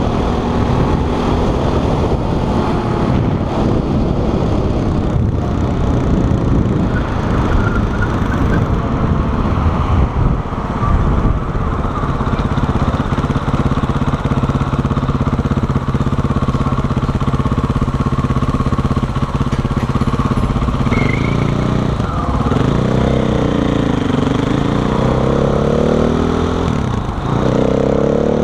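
KTM 500 EXC's single-cylinder four-stroke engine running under the rider, mixed with wind and road noise at first. Through the middle the engine note holds steady. Near the end the revs rise and fall several times as the bike pulls away through the gears.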